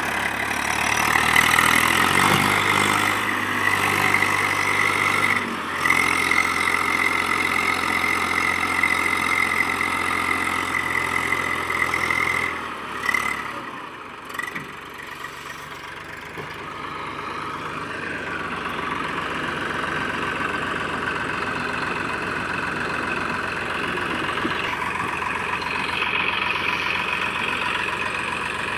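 Eicher 380 tractor's diesel engine running steadily with a high whine over it, easing off about 12 seconds in with a couple of short knocks, then running more quietly and slowly picking up again.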